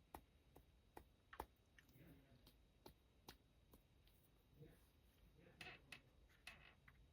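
Near silence with faint, irregular small clicks and taps scattered through, and a couple of soft brief rustles near the end.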